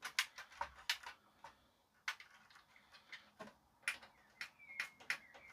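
Irregular sharp clicks and ticks as the JVC RX-320V amplifier is handled around its intermittent power button, with a faint high tone near the end.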